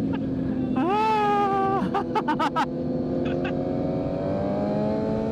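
Kawasaki Z900's inline-four through a full Leo Vince exhaust, running steadily and then slowly rising in pitch as the bike accelerates. About a second in, a separate higher tone sounds for about a second, followed by a quick run of sharp cracks.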